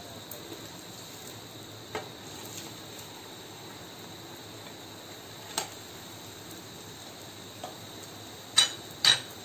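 Malpua batter frying in oil on a flat griddle pan: a steady, quiet sizzle. A few sharp clicks cut through it, the two loudest close together near the end.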